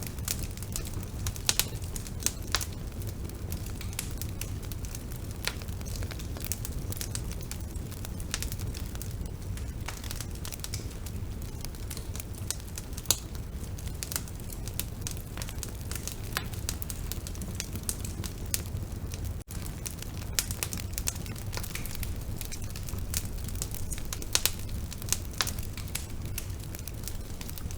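Bonfire burning: a steady low rumble of flames with frequent, irregular sharp crackles and pops. A momentary drop-out comes about two-thirds of the way through.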